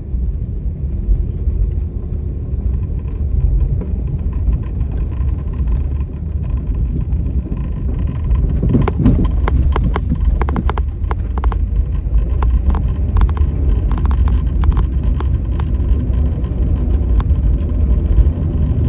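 Road vehicle on the move: a loud, steady low rumble, with a run of sharp clicks and ticks starting about halfway through.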